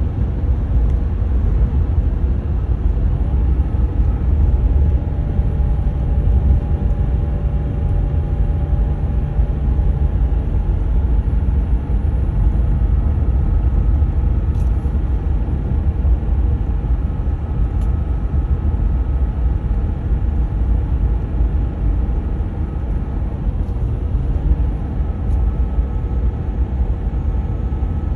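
The 3.0-litre V6 turbodiesel of a 2014 Ram 1500 EcoDiesel running: a steady, loud low rumble with a few faint steady whining tones over it. The truck has no power or boost and is throwing diesel particulate filter regeneration codes.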